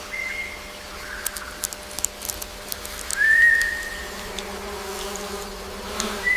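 Three long, steady whistled notes, each about a second long, over a faint steady hum with scattered short ticks.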